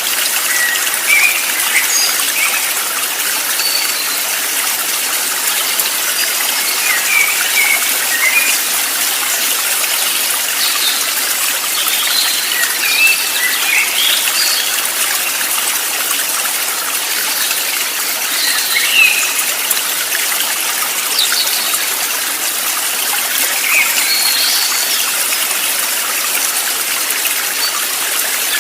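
Steady rushing of stream water, with scattered short bird chirps and whistles every second or two.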